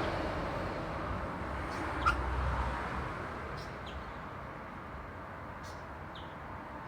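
Road traffic noise, a passing vehicle fading away, with one short bird call about two seconds in and a few faint ticks later.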